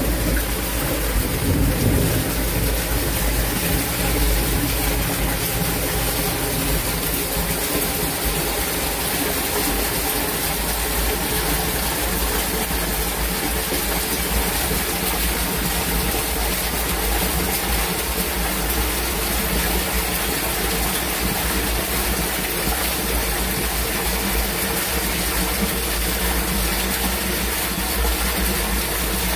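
Heavy rain pouring steadily in a downpour, with a constant low rumble underneath.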